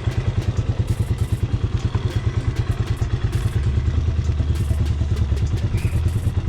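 Hawk 250 dual-sport motorcycle's single-cylinder four-stroke engine idling with an even, steady putter of about ten beats a second.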